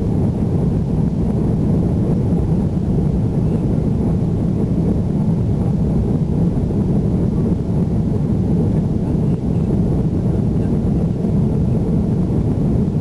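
Airbus A330 engines and airflow heard inside the passenger cabin as a loud, steady low rumble, with a faint thin high whine above it.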